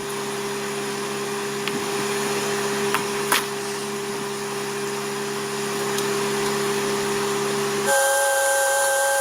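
Electric motor running steadily with an airy hiss and a constant hum. About eight seconds in the hum jumps to a higher, louder pitch.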